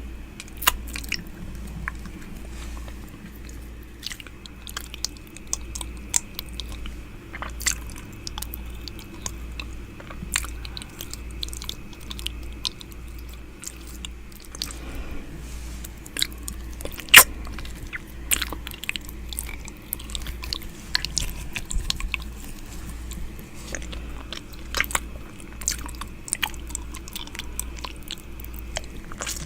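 Close-up 'ear eating' ASMR mouth sounds: wet lip smacks, tongue clicks and licking right against a microphone ear, as an irregular stream of sharp clicks with one sharper click about two-thirds of the way through. A low pulsing hum runs underneath.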